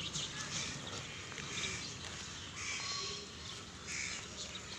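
Birds calling repeatedly, short harsh calls coming about once a second, over outdoor background noise.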